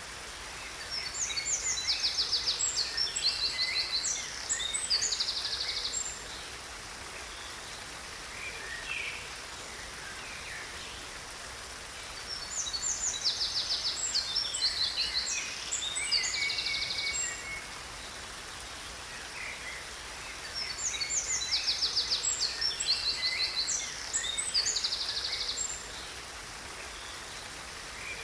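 A songbird sings three bouts of rapid, high trilled phrases, each about five seconds long, over a steady rush of falling water.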